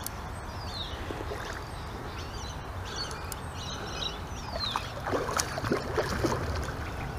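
Birds calling over a steady outdoor background hiss: two short falling whistles and a few quick chirps, with a handful of faint clicks.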